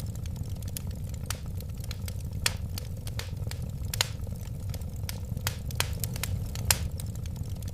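Wood fire crackling: irregular sharp pops and snaps over a steady low rumble of the flames. The loudest pops come about four seconds in and near the end.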